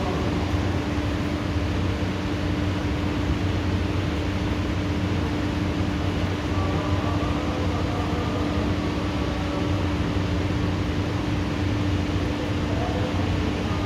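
Steady heavy rain hissing evenly, with a constant low mechanical hum underneath; no thunderclap.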